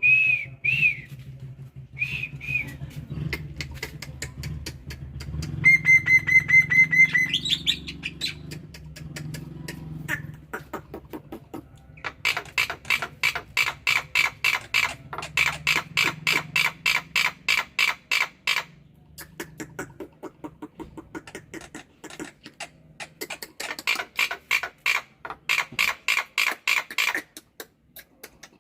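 Black-winged myna (jalak putih) singing: clear whistles at first, a held whistle that rises at its end about seven seconds in, then long runs of fast, rattling chatter, many notes a second.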